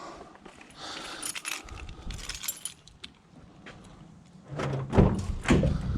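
Metal clinking and rattling as scrap items are handled, then two heavy knocks about five seconds in.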